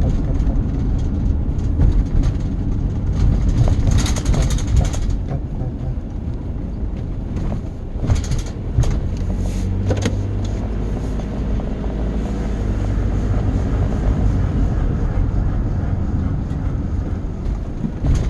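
A vehicle's steady low rumble, with a few sharp clicks and a brief hissing burst about four seconds in.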